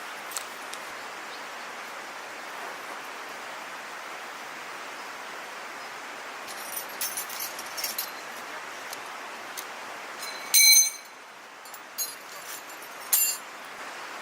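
Light metallic clinks, then one loud ringing clink about ten seconds in and two sharper clanks after it, from metal camp gear being handled. A steady rushing hiss runs underneath and drops away at the loud clink.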